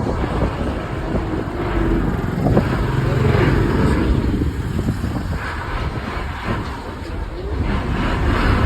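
Wind buffeting the microphone, with a steady low rumble of passing motor traffic.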